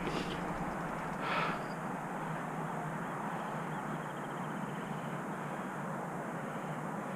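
Steady outdoor background noise, with a brief higher-pitched sound about a second in and faint fine ticking a few seconds later.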